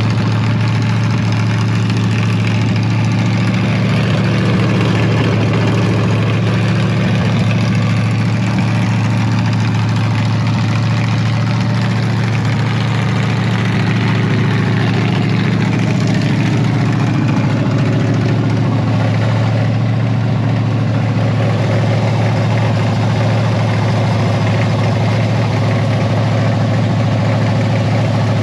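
Chevrolet C10 pickup engine idling steadily, running again after sitting for eight years.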